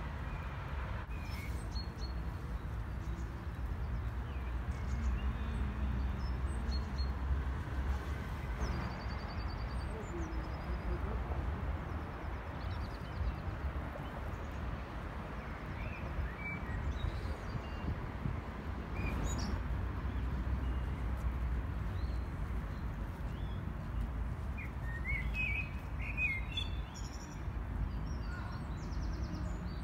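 Small birds chirping now and then, short high calls over a steady low rumble, with a busier run of calls near the end.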